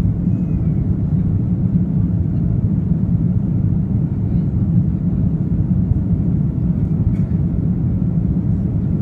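Steady low rumble of an Airbus A330-300's engines and airflow heard inside the passenger cabin, even and unbroken throughout.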